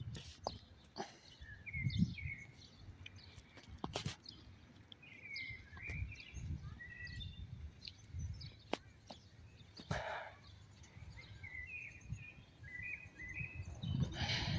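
Birds chirping in short, quick rising and falling notes, over a low background rumble, with a few sharp clicks scattered through.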